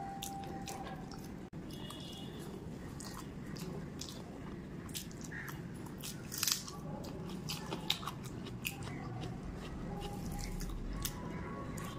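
Close-up eating sounds: wet chewing and lip-smacking on a mouthful of hand-mixed rice, full of small clicks. A louder burst of clicks comes about six and a half seconds in, with fingers squishing through the rice on the plate around it.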